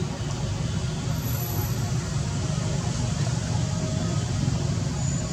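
A steady, low rumbling background noise with no clear events.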